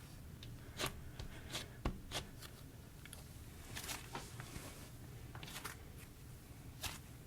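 Soft clay slime with sprinkles mixed in being squished and worked by hand, giving faint, irregular sticky clicks and small pops.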